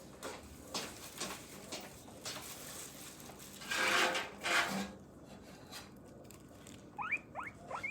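Scattered knocks and rubbing, with a louder rustling clatter about four seconds in, then a few short rising squeaks from a guinea pig near the end.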